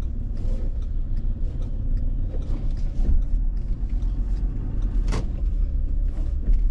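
A car driving, heard from inside the cabin: a steady low rumble of engine and tyres on the road, with scattered light rattles and one sharper click about five seconds in.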